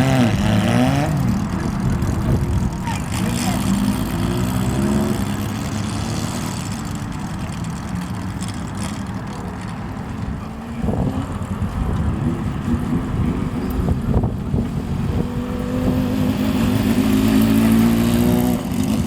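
Old Japanese motorcycles, chiefly Honda CBXs, riding off one after another with their custom exhausts. Engines are revved several times, each rev a rising pitch: near the start, around four seconds in, and building again near the end.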